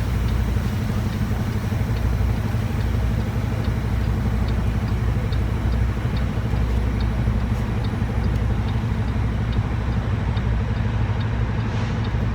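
Semi truck's diesel engine running with a steady low rumble, heard from inside the cab while maneuvering to back into a dock. A light regular ticking, about two a second, comes in a few seconds in.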